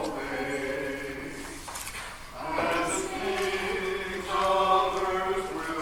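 Congregation singing together, several voices holding long notes that change pitch every second or so.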